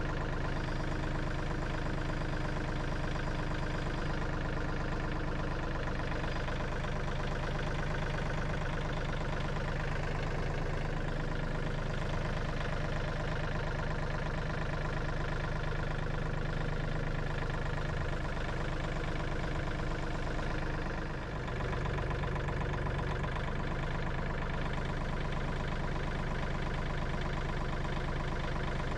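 Tractor engine running steadily at a low, even speed, with a slight momentary dip about two-thirds of the way through.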